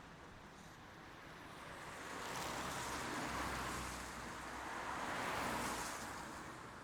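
Rain falling as a steady hiss that swells louder twice, about two seconds in and again about five seconds in, before easing back.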